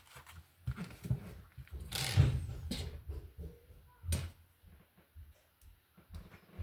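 Plastic Lego pieces being handled and pressed together: scattered clicks and knocks. The loudest comes about two seconds in and a sharp click about four seconds in.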